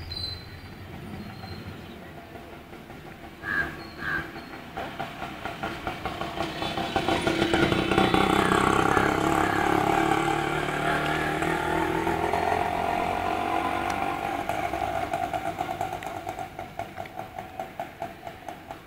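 A train passing: it builds up over a few seconds, runs loud for several seconds with a fast rhythmic clatter, then fades away.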